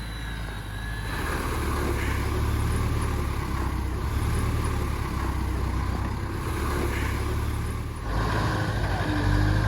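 Dnepr MT16 sidecar motorcycle's flat-twin engine running under load on a steep climb, the engine note getting louder about a second in and again near the end.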